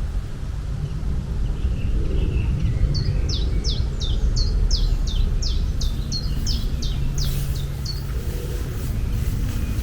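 A songbird singing a run of about a dozen short, falling notes, roughly two a second, from about three seconds in until eight, over a steady low outdoor rumble.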